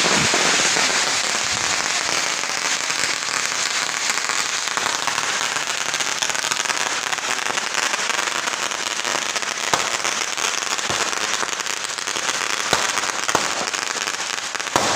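Firecrackers going off in a rapid, continuous crackle, with a few louder single pops in the second half.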